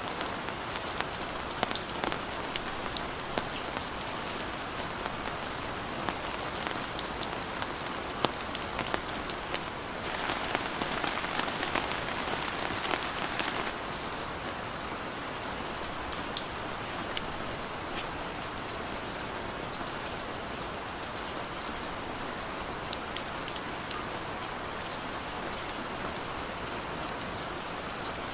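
Heavy rain falling steadily, with many individual drops ticking sharply. The rain gets briefly heavier for a few seconds about ten seconds in.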